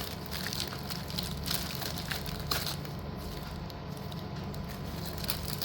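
Scattered light clicks and taps of yellow slate pencil pieces being handled, over a steady low background hum.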